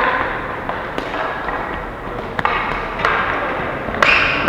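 Ball hockey play in an arena: a few sharp knocks of sticks and the ball over a steady hubbub of the rink.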